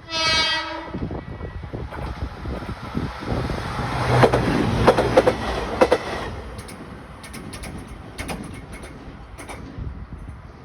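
A train sounds one short horn blast of about a second, then passes, its wheels clacking over the rail joints. The passing is loudest a few seconds in and then fades.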